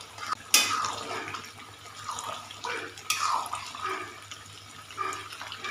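Beef karahi gravy bubbling and sizzling in ghee in a karahi as a spoon stirs and scrapes through it, with irregular sharper scraping strokes, the loudest about half a second and three seconds in. This is the bhunai stage, frying the masala down in ghee until it is cooked. A low steady hum runs underneath.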